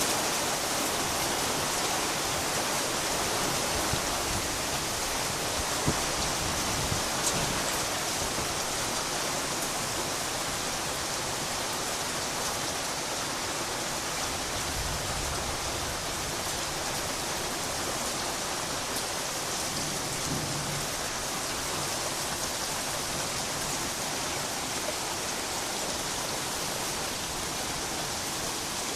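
Steady heavy rain in a thunderstorm, with a few sharp drop ticks in the first several seconds and a faint low rumble of distant thunder around the middle.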